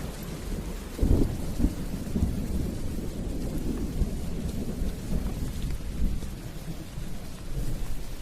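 Steady rain with thunder: a sharp low crack about a second in, then rolling rumble that carries on under the rain.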